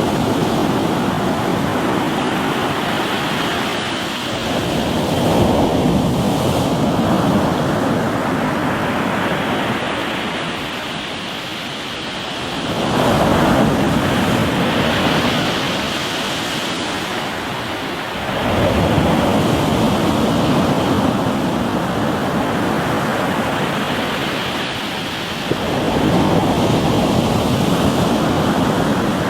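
Sea waves breaking and washing over a rocky shore: a continuous rush of surf that swells up in four big surges, each every several seconds.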